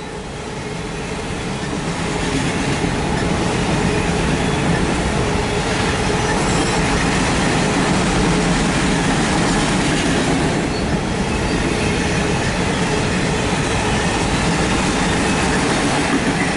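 Empty autorack freight cars rolling past a grade crossing: a steady rumble and clatter of steel wheels on the rails, heard from inside a car. It grows louder over the first couple of seconds, then holds steady.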